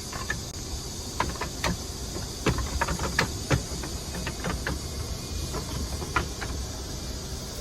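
Scattered light clicks and knocks as the car bed platform's frame pieces and clips are handled and clipped together, over a steady hiss.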